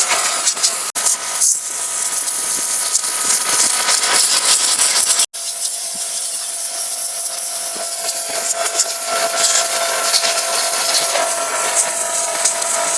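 Pressure washer running: a steady, loud hiss of the water jet over a steady whine from the machine, with a brief dropout about five seconds in.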